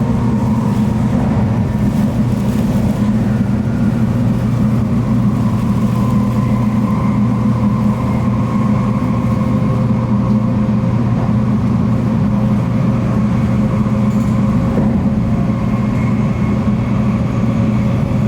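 Tokaido Shinkansen bullet train running, heard from inside the passenger cabin: a steady low rumble with a faint, even whine over it.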